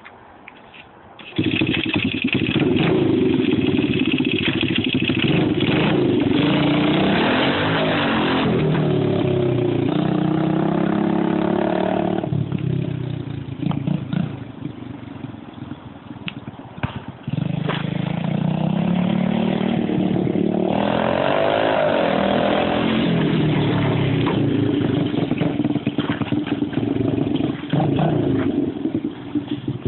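Minibike's 88cc big-bore four-stroke engine, a 50cc bored out with a hot cam, starting about a second in. It then runs and is revved up and down repeatedly, settling lower for a few seconds in the middle before revving again.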